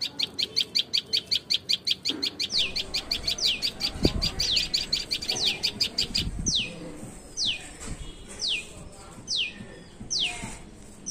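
Birds calling: a fast run of high chirps, about six a second, through the first half. Overlapping it and then alone comes a repeated high note sliding downward, about once a second. A low thump about four seconds in.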